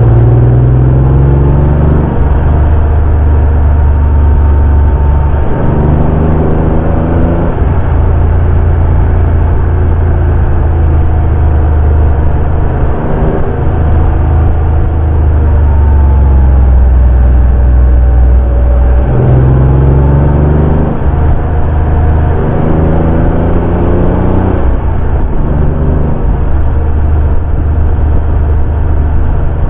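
Porsche 911 964's air-cooled flat-six engine driving on the road: it pulls up through the revs and drops back on gear changes near the start, around six seconds in and again around twenty seconds in, with steadier cruising in between.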